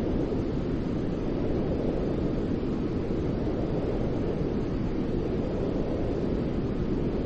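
Steady, unchanging low-pitched white noise, a deep even hiss heavy in rumble and light in treble, with no rhythm or breaks.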